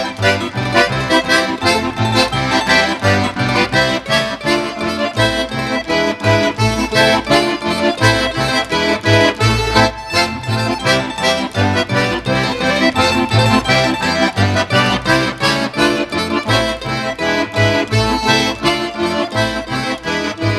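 Accordion music in a traditional folk style, with a steady pulsing bass beat.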